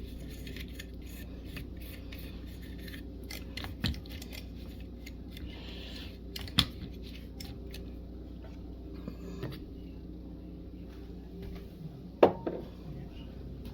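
Small kitchen items being handled on a counter: scattered light clicks, taps and scrapes, with sharper knocks about four, six and twelve seconds in, over a steady low hum.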